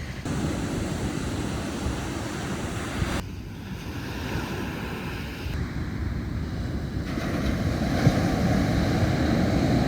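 Ocean surf washing in as a steady roar of noise, with wind buffeting the microphone, over several short clips cut together.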